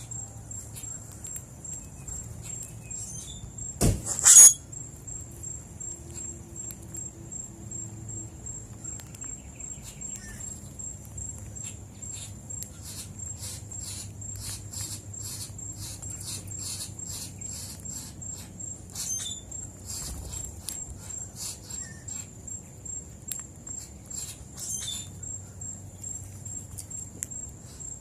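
An insect trills steadily throughout in a high, evenly pulsed buzz, over a run of short, evenly spaced high chirps from about twelve seconds in. A sharp double knock about four seconds in is the loudest sound.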